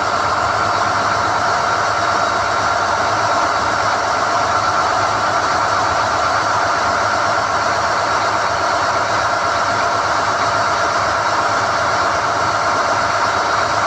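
SDH-1600 core drilling rig running steadily while NQ drill rods are being pulled from the hole: a continuous loud machine drone with a steady high whine over it.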